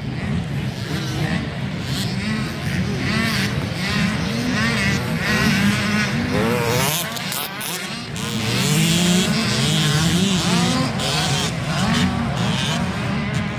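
65cc two-stroke motocross bikes racing, their engines revving up and falling back again and again as they work the track, with more than one engine heard at once.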